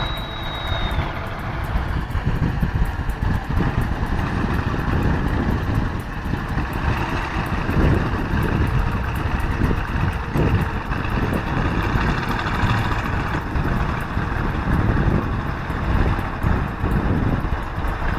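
Heavy diesel machinery engines running continuously.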